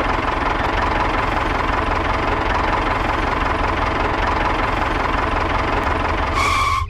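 Tractor diesel engine idling steadily. A short high beep comes near the end.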